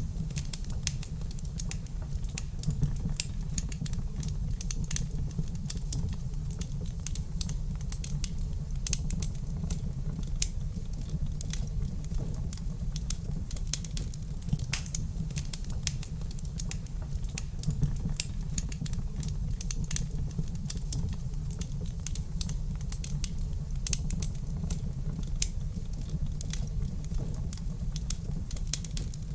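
Wood fire crackling steadily: a dense, irregular run of small sharp pops and snaps over a constant low rumble.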